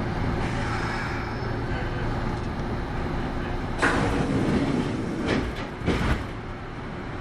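Kintetsu 8810 series electric train running, heard from inside the car: a steady rumble of wheels on rail with a low hum. About four seconds in comes a sudden loud rush of noise, followed by a few sharp knocks.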